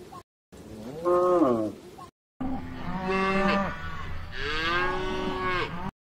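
Cows mooing: one moo that rises and falls about a second in, then after a brief silent break a longer run of overlapping moos that cuts off abruptly near the end.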